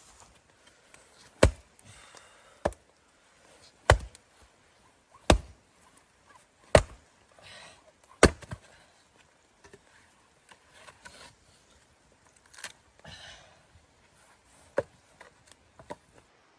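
Wood being chopped: six hard strikes about a second and a half apart, then a few lighter ones near the end.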